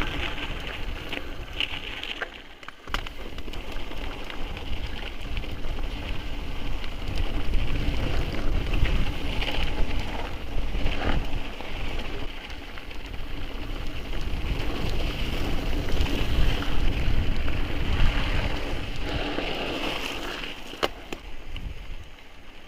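Mountain bike riding down a trail: wind buffets the microphone and the tyres rumble over the ground, with scattered sharp knocks and rattles.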